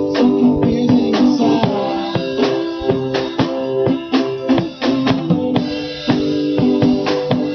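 A rock band playing an instrumental passage live: drum kit with bass drum and snare keeping a steady beat under sustained guitar chords.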